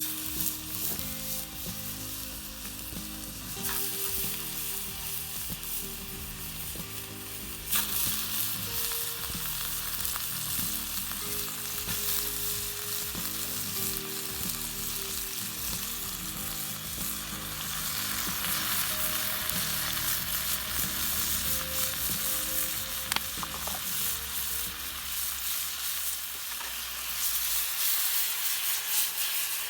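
Food frying and sizzling in a pan over a campfire, a steady hiss with a few sharp clicks, over soft background music.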